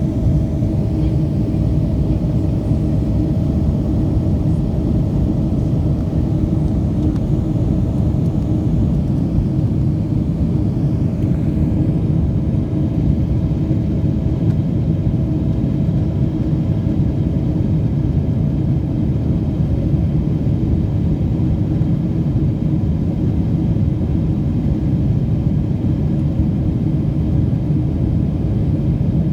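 Steady rumble of an aeroplane in flight heard inside the cabin, engine and airflow noise, with a faint steady tone that stops about two-thirds through.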